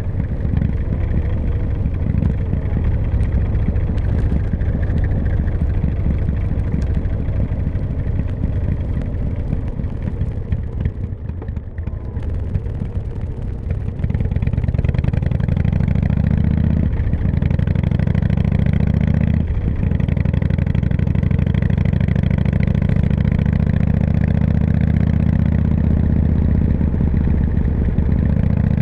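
Harley-Davidson motorcycle's V-twin engine running under way. It eases off briefly about halfway through, then runs louder and steadier through the rest.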